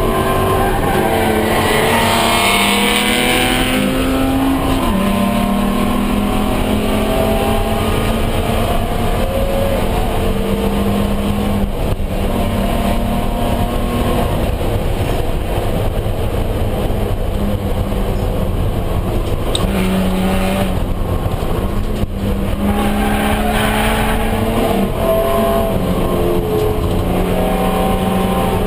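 Race car engine heard from inside the stripped cabin, running hard under load. Its note climbs and then drops in steps several times as the driver shifts gears, over steady wind and road noise.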